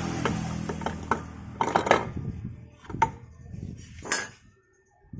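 Metal parts of a scooter's CVT assembly being handled and fitted: several separate clinks and knocks, the loudest about two seconds in. A steady low hum dies away in the first second and a half.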